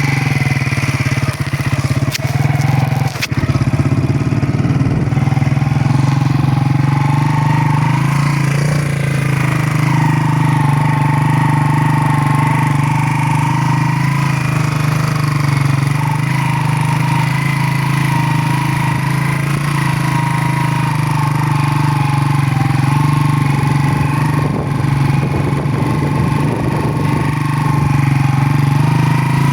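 Motorcycle engine running at a steady, even speed, with a few knocks and rattles in the first few seconds.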